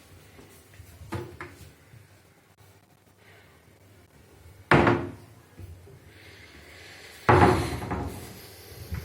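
A door shutting twice, each time a sudden loud knock with a short trailing decay, about five and seven seconds in, with a fainter knock about a second in.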